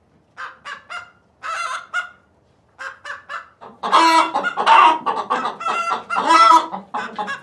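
Chickens clucking in short, separate calls, then a louder, busier run of calls from about four seconds in.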